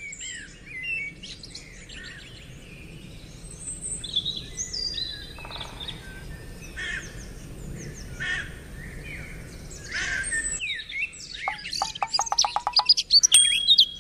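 Several birds chirping and calling over one another in short, quick notes. The calls grow denser and louder over the last few seconds.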